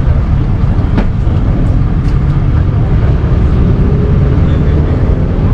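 Vehicle engines making a loud, steady low rumble, with a single sharp click about a second in.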